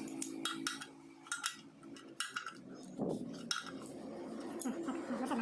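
Metal hand tools clinking: a run of sharp clicks and clinks in the first half, then a rougher, noisier stretch of handling.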